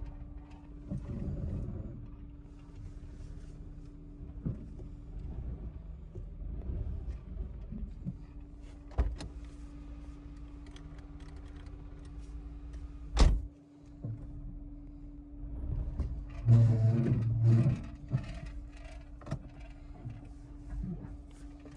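Sounds inside a running car: a steady hum throughout, a single sharp knock about 13 seconds in, and an electric power-window motor running for a second or two about 17 seconds in.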